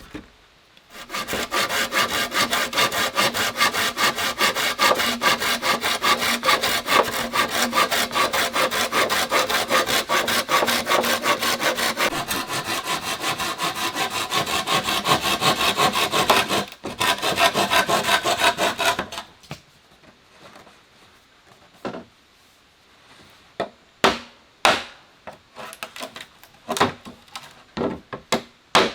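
Hand saw cutting through wood in fast, steady back-and-forth strokes, with a brief stop partway through. After that the sawing ends, and a few scattered knocks and clicks follow.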